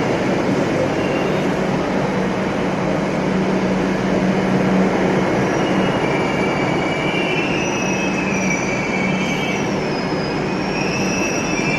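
Kolkata Metro train running on the rails: a steady rumble with a low hum. From about halfway in, a wavering high squeal of wheels against the rail joins it.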